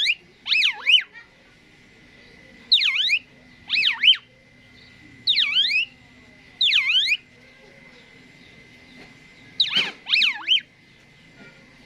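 Asian pied starling (jalak suren) calling loudly: short bursts of two or three fast, sweeping whistled notes that swoop down and up, repeated about every second, with a longer pause before a last pair of bursts near the end.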